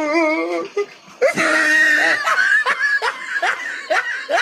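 A person laughing in a run of short, repeated bursts, after a brief wavering drawn-out vocal sound at the start.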